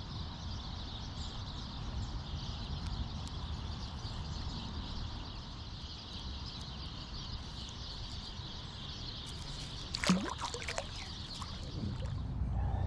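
Steady rushing of creek water, a hiss with a low rumble beneath it, and one brief sharp sound about ten seconds in.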